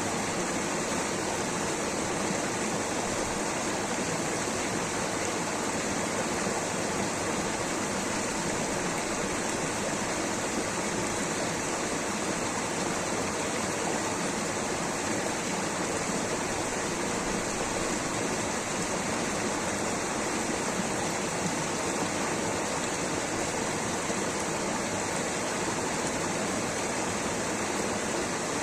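Rushing water, a steady, unbroken rush with no separate splashes or breaks.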